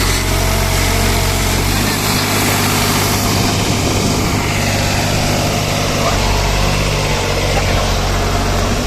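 New Holland tractor engine running steadily, its low note shifting slightly about two seconds in and again about six seconds in.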